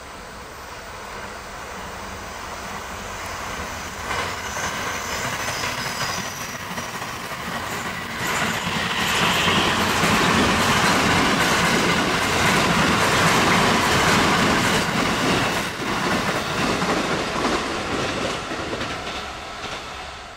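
Two JR East E257-series limited express electric trains passing side by side, with their wheels clacking over the rail joints. The noise builds as they approach, is loudest for several seconds as the nearer train goes by, and fades as its last car clears near the end.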